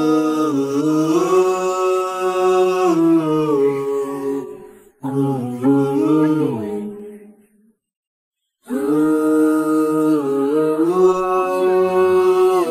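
Vocal music without instruments: a voice singing long, drawn-out notes that slide slowly in pitch, in a chant-like style. It breaks off briefly about five seconds in, then falls silent for about a second before resuming.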